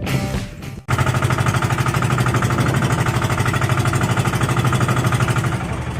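Background music fading out in the first second, then a fishing boat's engine running steadily with a fast, even pulsing thud.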